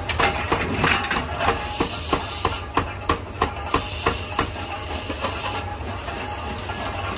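Forging hammer striking repeatedly, about three blows a second, over a steady hiss and a low machine hum; the blows grow weaker after about four seconds.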